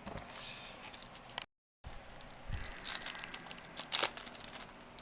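Trading card pack wrappers crinkling and tearing as packs are ripped open, in irregular crackly bursts and clicks that are busiest near the middle. The audio drops out completely for a moment about a second and a half in.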